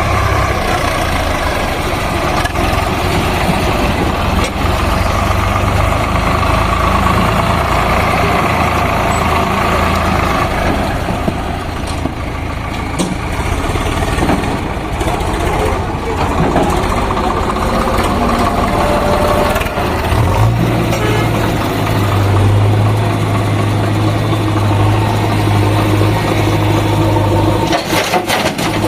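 Diesel engine of a JCB backhoe loader running steadily while digging; its low hum grows stronger about twenty seconds in. A few sharp knocks come near the end.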